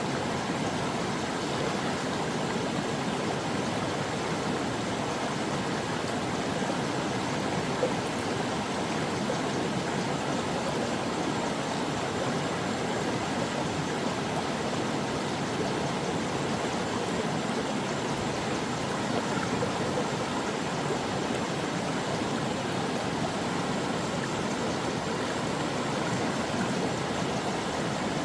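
Stream water flowing steadily over rocks, a continuous even rushing with no breaks.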